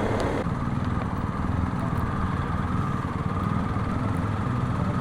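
BMW R1250GS's boxer twin engine running steadily at low speed, with a low, even pulse.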